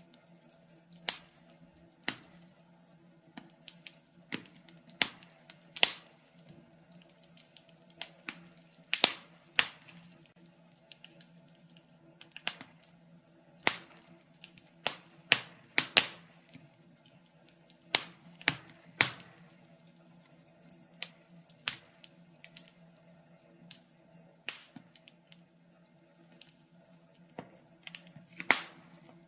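Wood fire crackling in a fireplace: irregular sharp pops and snaps at uneven intervals, some much louder than others.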